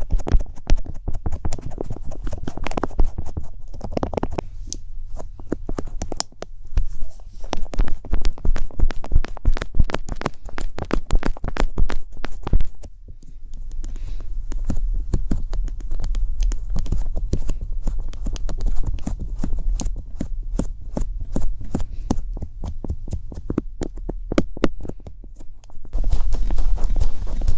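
Rapid, irregular clicking and tapping over a steady low hum.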